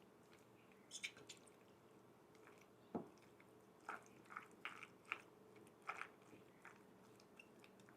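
A utensil mixing macaroni and potato salad with mayonnaise in a mixing bowl: faint, irregular wet squishing and soft clicks, with one sharper knock against the bowl about three seconds in.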